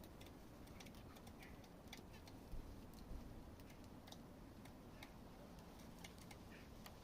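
Faint, irregular light ticks and taps from small cage birds and guinea pigs moving about, with a few soft, short bird chirps. Two slightly louder taps come about halfway through.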